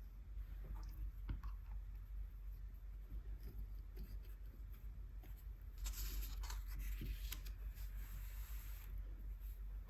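Close-up handling sounds of gouache swatching: scattered light clicks and taps, and a scratchy stretch from about six to nine seconds in.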